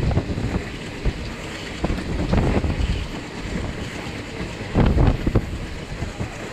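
Train running, heard from an open window, with wind buffeting the microphone in irregular gusts over a steady low rumble.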